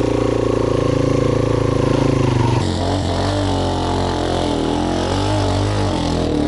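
Trail motorcycle engine running close by, held at fairly steady revs for about two and a half seconds, then dropping and wavering up and down with the throttle as the bike is ridden.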